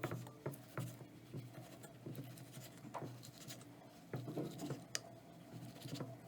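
Irregular light scraping and tapping of kitchen utensils at work, a series of short uneven clicks and scrapes.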